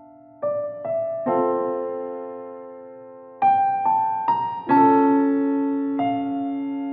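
Slow, gentle solo piano music: single notes and chords struck one after another, each ringing on and fading, with a pause of about two seconds after the first three.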